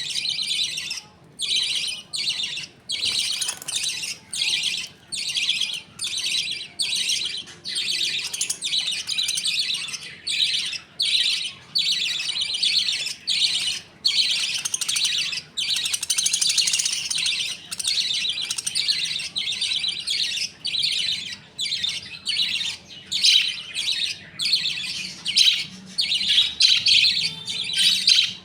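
Budgerigars chirping and chattering, a dense high twittering broken into short bursts about twice a second.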